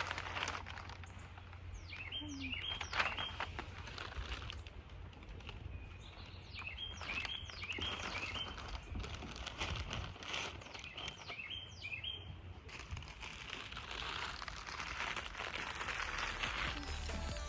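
Songbird chirping in three short bursts of quick notes, over a steady low rumble with some rustling.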